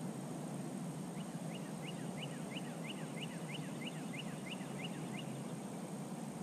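A bird calling a rapid series of short, rising whistled notes, about three a second, starting about a second in and stopping about five seconds in, over a steady low background rumble.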